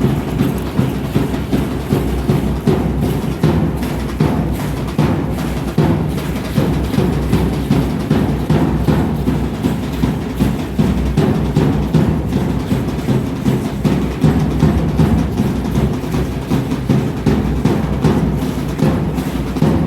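Aztec dance drumming: a large drum keeping a steady, even beat of about two strokes a second.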